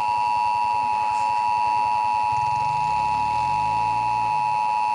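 Emergency Alert System attention signal: a loud, steady two-tone alarm held without a break, announcing a National Weather Service tornado warning. A low rapid pulsing runs underneath.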